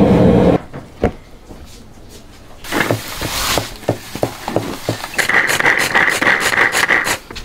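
A cleaver chopping green beans on a plastic board stops about half a second in. A few knocks and a short rustle follow as the filling is mixed in a steel bowl. From about five seconds in, a small push-top electric chopper whirs steadily as it minces.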